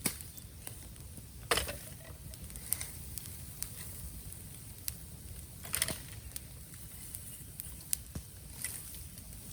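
Bamboo burning in an open bonfire: irregular crackling and sharp snaps, with a few louder pops, the loudest about a second and a half in and near six seconds, over a steady low rumble of the fire.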